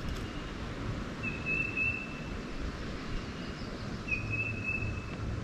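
Steady low outdoor background noise with two thin whistled bird notes, each held about a second, one about a second in and another about four seconds in.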